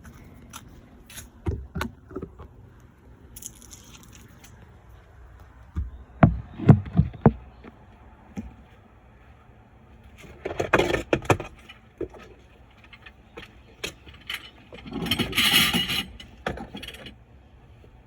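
Handling noise from hard objects being moved and set down: scattered knocks and thumps, the loudest a cluster about six to seven seconds in. Two stretches of rattling, scraping noise follow, about ten seconds in and again about fifteen seconds in.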